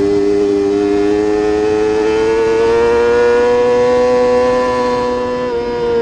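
Race motorcycle engine held at high revs, its pitch climbing slowly for a few seconds, then dropping a little about five and a half seconds in.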